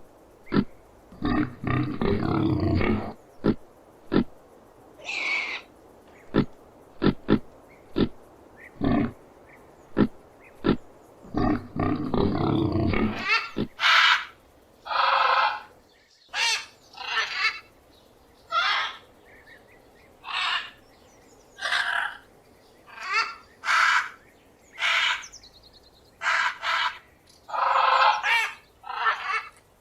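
Vietnamese pot-bellied pig grunting in a series of short grunts, then, a little before halfway, a parrot calling with repeated short, high-pitched squawks.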